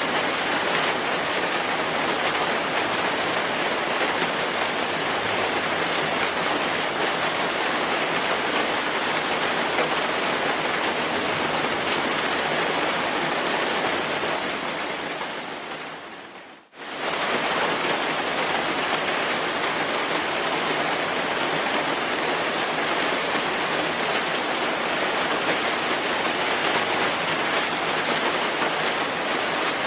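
Steady, heavy rainfall, an even hiss of many drops. About halfway through it fades down to near silence over a couple of seconds, then snaps straight back to full level.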